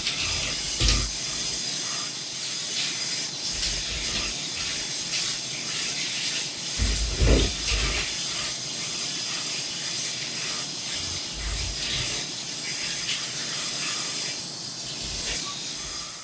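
Pet grooming blow dryer running with a steady high hiss, with a few dull low bumps.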